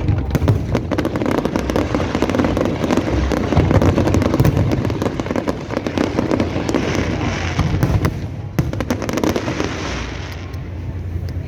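Fireworks going off in a dense, continuous barrage of crackles and sharp pops.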